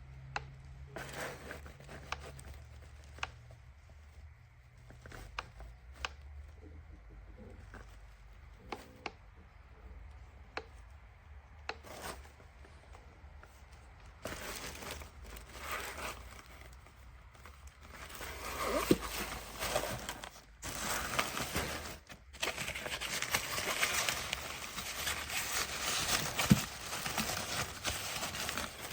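Packaging being handled and opened: scattered light clicks and taps, then from about halfway through a longer stretch of crinkling and tearing.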